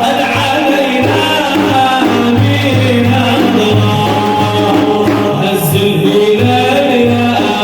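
Sufi devotional praise singing (madih) by a group of voices over a steady, regular drum beat.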